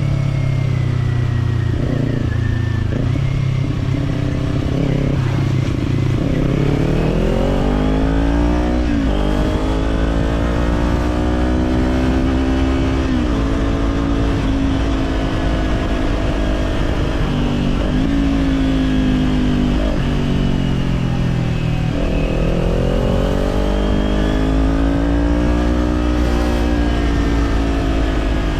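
Kawasaki Z400's parallel-twin engine through an Orion Katya slip-on exhaust, ridden on the road. Its pitch climbs and drops several times as it accelerates and eases off.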